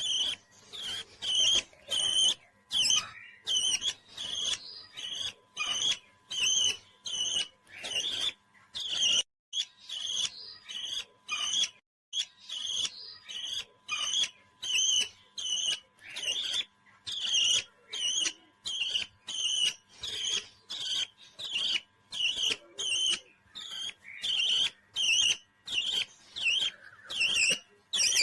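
A parrot calling over and over in short, high chirps at a steady pace of about two a second.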